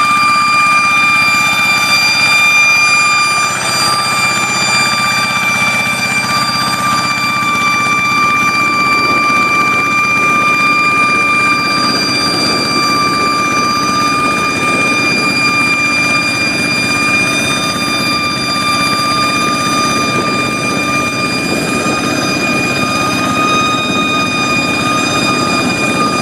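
Hand tractor's engine running steadily, with a strong, steady high-pitched whine held over it throughout.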